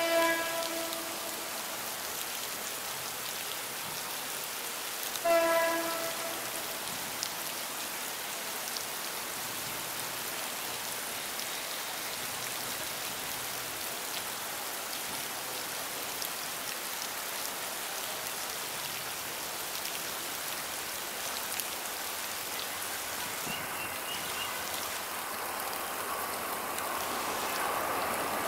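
Steady rain falling, with two short blasts of a diesel locomotive's horn about five seconds apart near the start. Toward the end the approaching train, an EMD GT18LA-2 diesel-electric locomotive hauling coaches, grows steadily louder.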